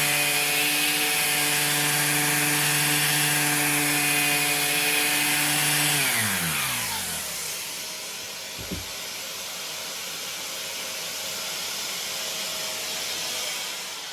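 Makita orbital sander running steadily on an alloy wheel, stripping salt-corroded clear coat, then switched off about six seconds in, its hum falling in pitch as it spins down. A fainter hiss carries on afterwards, with a single short knock a few seconds later.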